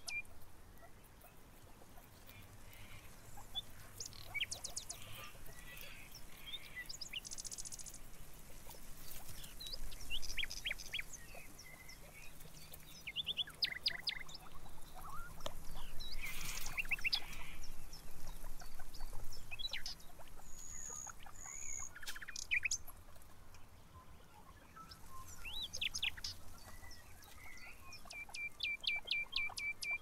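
Small birds chirping and twittering in short, varied bursts of high notes, some as quick, evenly paced trills.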